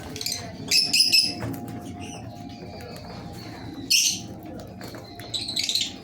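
Lovebirds in an aviary colony giving shrill, high-pitched chirps in short bursts, four times, the loudest about a second in and at four seconds, over a steady low hum.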